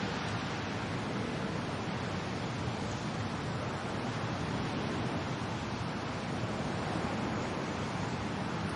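Steady rain and wind, an even hiss that neither rises nor falls.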